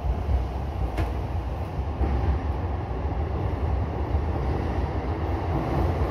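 E233-series electric train running through a tunnel, heard from the driver's cab: a steady low rumble, with one sharp click about a second in.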